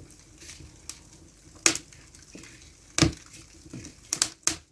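Newly lit wood fire in a fireplace crackling, with several sharp pops at irregular intervals. The loudest come about three seconds in and in a quick cluster near the end.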